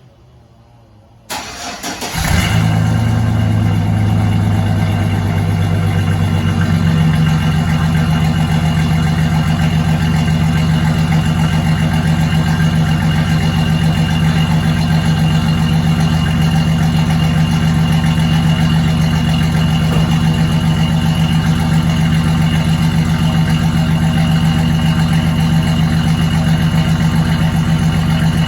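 2006 Chevrolet Silverado's 4.3 L V6 cold start: a short crank about a second in, the engine catches, and then it runs. Its note shifts about seven seconds in, and it settles into a steady idle.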